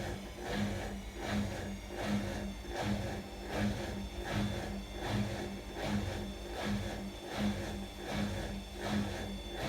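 Atlant washing machine running: a steady motor hum that swells in an even pulse about every three-quarters of a second.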